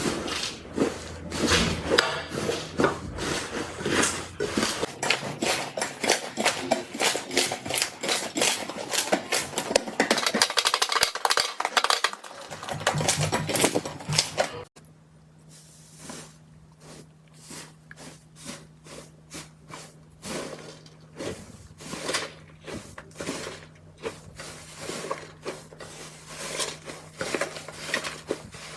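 Slime being squished and poked by hand, making rapid, dense clicks and pops. About halfway through it cuts to a quieter stretch of sparser clicks over a low steady hum.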